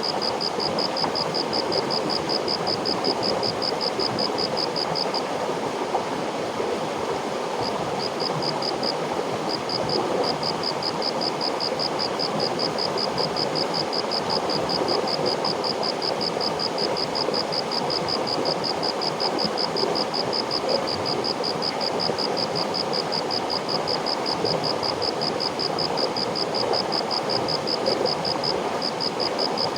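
River water flowing steadily. Over it, a fast, evenly repeated high-pitched chirping, likely an insect, breaks off about five seconds in and resumes a few seconds later.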